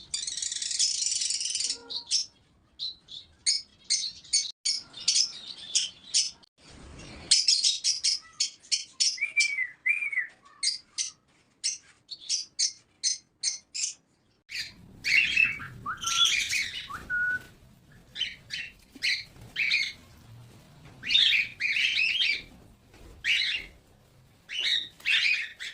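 Small pet parrots chirping, a dense run of quick, high, overlapping chirps.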